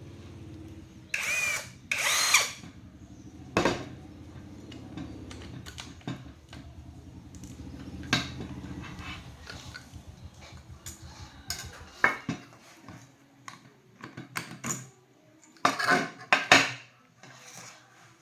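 A small electric power-tool motor runs steadily, then cuts off about twelve seconds in. Loud sharp clacks and scraping sounds of hand work on the tool come throughout, the loudest near the start and near the end.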